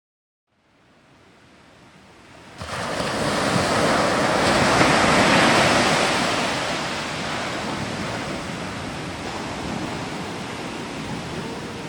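Surf washing steadily, fading in from silence and jumping louder about two and a half seconds in.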